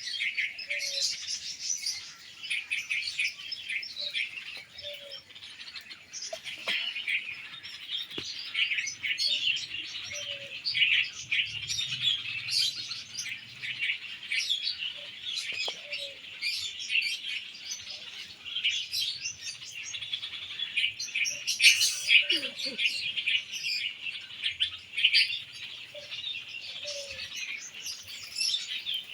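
Baby birds chirping: a dense, unbroken stream of rapid high-pitched cheeps.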